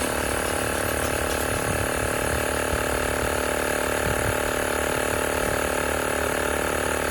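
Tower Top portable tire inflator's small piston compressor running steadily under load, pumping a truck tire up toward about 40 psi.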